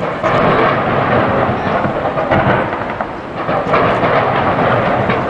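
Fireworks going off from a skyscraper display: a continuous, dense crackling and rumbling of many bursts at once, getting louder right at the start.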